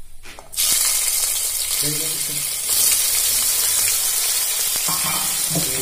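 Soaked, drained soya chunks dropped into hot mustard oil in a kadhai: a loud sizzle bursts out about half a second in, goes on steadily and swells briefly around three seconds in as more chunks hit the oil.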